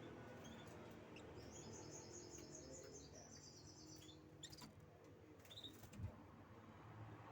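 Canary singing softly: a rapid trill of repeated high notes lasting about two and a half seconds, with short chirps scattered before and after. A single short knock near the end.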